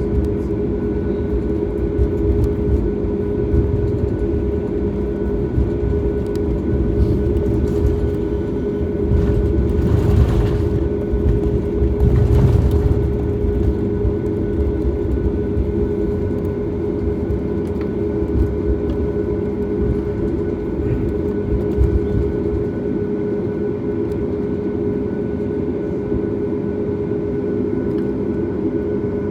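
Boeing 737 MAX cabin noise: the steady drone of its CFM LEAP-1B engines and airflow, with a constant hum over a low rumble. The rumble swells briefly twice near the middle and eases off near the end.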